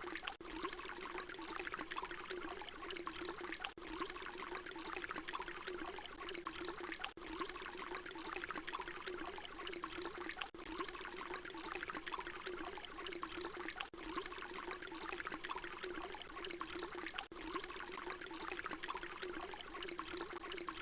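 Water pouring steadily, a continuous splashing trickle with brief dips in level about every three and a half seconds where the short recording loops.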